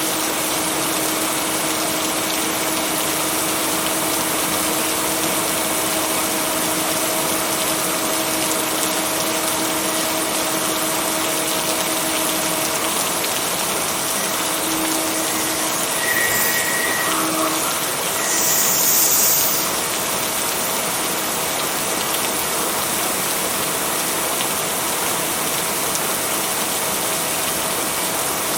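Steady rain with an even hiss and a faint constant hum underneath. A brief louder, higher hiss comes about two-thirds of the way through. No thunder.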